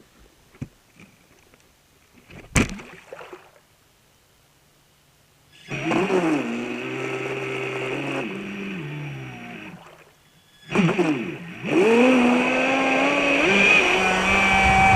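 Traxxas Spartan RC boat's electric motor whining, its pitch rising and falling with the throttle. It starts a few seconds in, dies away, then comes back and runs hard to the end. A single sharp knock sounds in the quiet before it.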